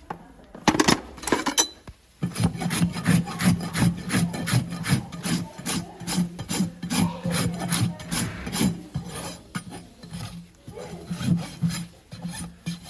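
Farrier's rasp filing a horse's hoof, in quick, even back-and-forth strokes about three a second, with a short burst first and a brief pause before a few last strokes.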